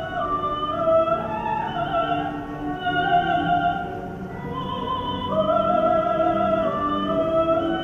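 Operatic singing in a high voice, long held notes moving in steps, over a lower sustained accompaniment.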